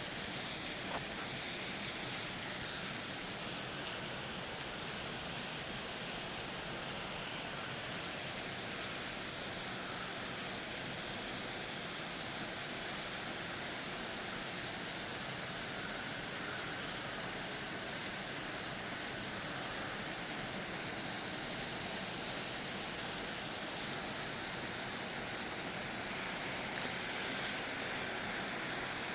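Steady hiss of rain falling during a storm.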